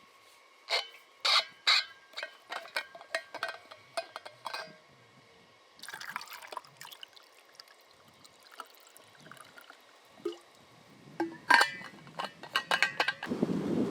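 Liquid dripping and splashing into a container in a series of sharp, ringing plinks, with a short pour about six seconds in and more plinks near the end. Just before the end a steady low rushing noise starts.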